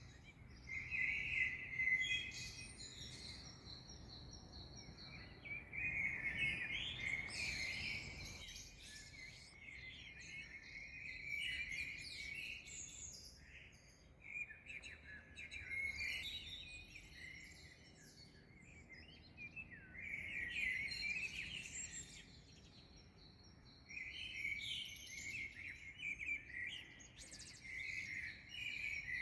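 Dawn chorus of several small songbirds chirping and trilling in overlapping bursts. A faint low background rumble drops away about eight seconds in.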